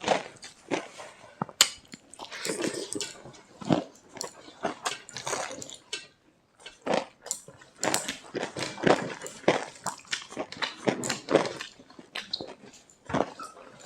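Close-up eating sounds of rice, dal and fried pakoras being eaten: chewing, lip smacks and crunches in a quick, irregular run of clicks.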